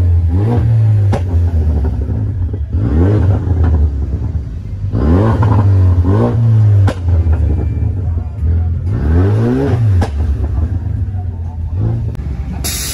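Cars driving past one after another, each engine revving up and back down over a deep exhaust rumble, four or five times.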